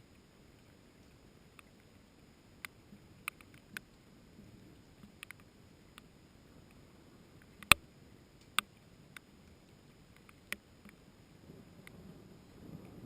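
Scattered single raindrops tapping sharply and irregularly, a dozen or so, the loudest about halfway through. Near the end a low rumble begins to build.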